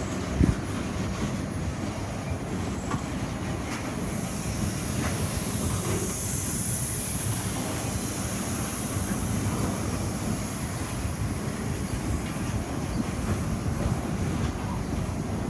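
A grain train rolling past on the rails with a steady rumble of wheels, and a single thump about half a second in. A high wheel squeal rises and fades in the middle.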